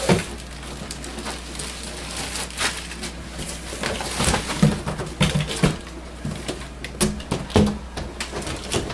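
Packaging being handled as a large inkjet printer is pulled up out of its box by its plastic wrapping: irregular crinkling, scraping and knocks, thickest in the second half.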